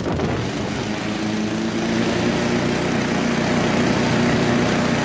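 Small petrol engine running steadily under throttle, its hum mixed with a strong rush of air.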